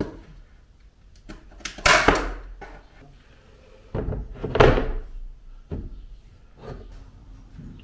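Plywood bed boards knocking and thudding as they are laid and shifted into place in the car's cargo area: a handful of separate knocks, the loudest about two seconds in and around four to five seconds in.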